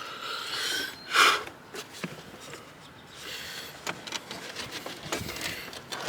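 Hands working plastic engine-intake parts loose, with scattered clicks, light knocks and scraping, and a short loud rustling burst about a second in.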